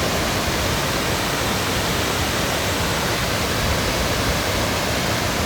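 Cascading waterfall: a steady rush of falling water.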